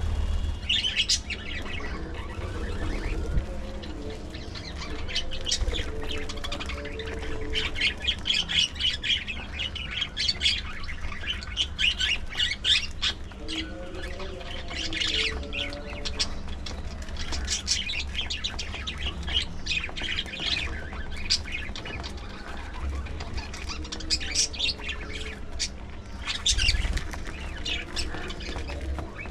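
A flock of budgerigars chattering, with a continual stream of short, sharp chirps and squawks.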